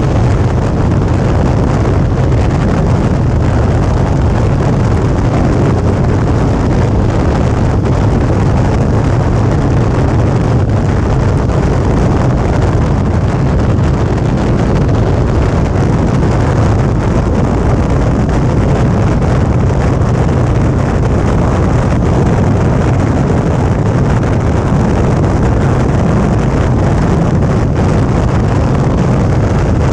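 Suzuki V-Strom 650 motorcycle running at steady road speed, its V-twin engine and road noise mixed with loud wind buffeting on the camera's microphone. The sound stays steady, with no change in pace.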